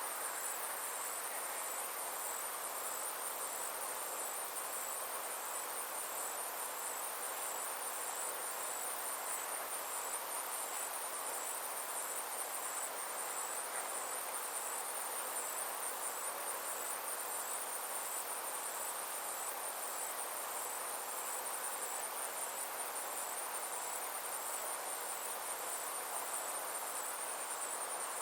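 Summer insects trilling: a steady, very high-pitched pulsing buzz that runs without a break, over a soft, even background hiss.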